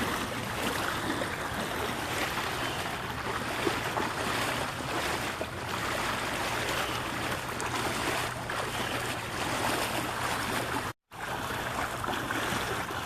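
Shin-deep floodwater sloshing and swishing around the legs of several people wading through a flooded street, a steady continuous wash of water noise. The sound drops out for a split second near the end.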